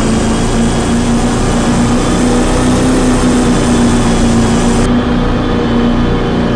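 Car engine running steadily and close, with a constant hum and no revving. A high hiss stops abruptly about five seconds in.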